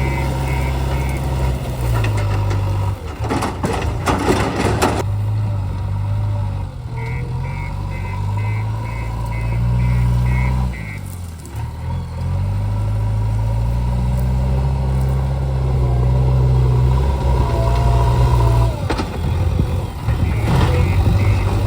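Diesel engine of a JCB backhoe loader working, its pitch rising and falling with load, with a reversing alarm beeping in short runs at the start, in the middle and near the end. A loud noisy burst lasting about two seconds comes a few seconds in.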